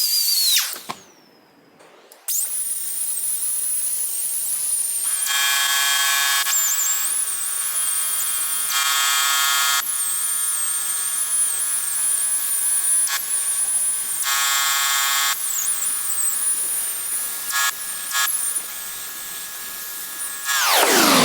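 Small high-speed rotary power tool grinding metal to take out a divot: a high whine that spins down under a second in and starts again near two seconds. It drops into a rougher buzz several times as the tool bites into the part.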